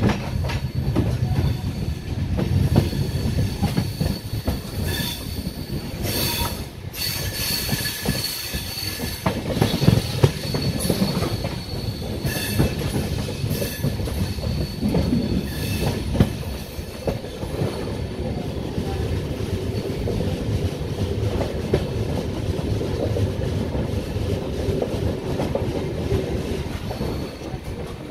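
Indian Railways passenger coaches running along the track, heard from an open door: a steady rumble of wheels on rail with repeated clacks over joints and points. A thin, high squeal of the wheels comes and goes through the middle part.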